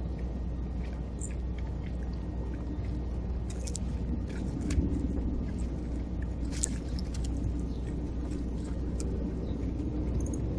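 A steady low rumble with scattered short, high bird chirps over it.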